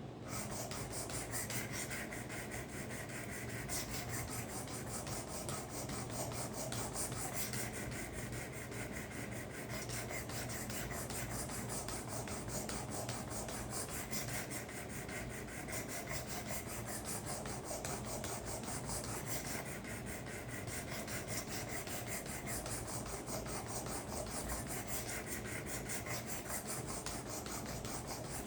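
Knife blade being stroked over and over across a 400 grit stone on a Work Sharp guided sharpener, a steady rasping scrape.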